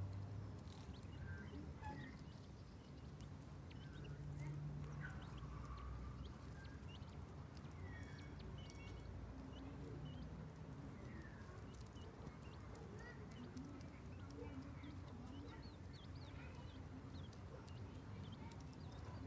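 King quail chicks giving soft, scattered peeps while pecking at food, with faint irregular ticks, over a steady low hum.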